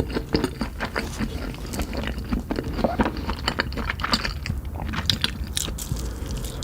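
Close-up crunchy chewing of Cheetos-crusted meat fingers: a dense run of crisp crackling bites and chews.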